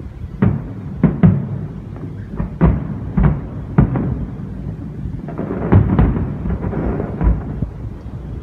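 Aerial fireworks shells bursting in an irregular string of booms, about ten in eight seconds, each with a rumbling tail over a continuous low din.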